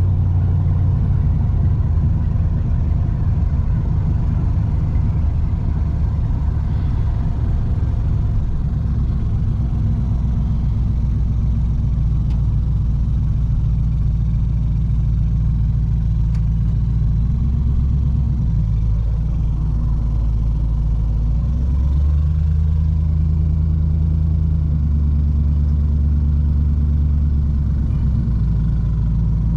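Road vehicle running at speed: steady low engine and road rumble, as heard inside a moving vehicle, with the engine note shifting several times in the second half.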